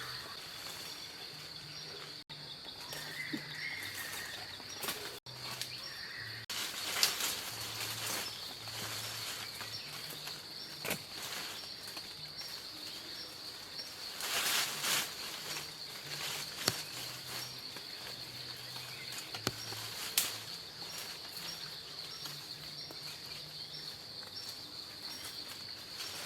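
Forest insects droning at one steady high pitch, with a faint pulsing chirp above it. A few bursts of rustling and knocks cut through it now and then.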